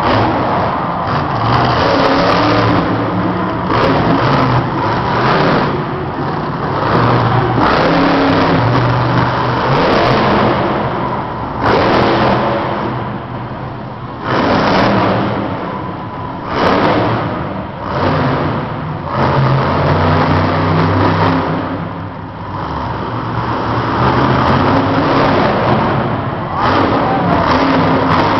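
Monster truck's supercharged V8 revving in repeated bursts of throttle, each surge swelling and dropping off every few seconds.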